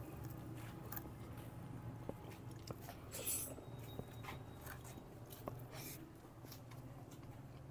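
Faint close-miked chewing of a mouthful of fried chicken and rice, with scattered small wet clicks and smacks of the mouth.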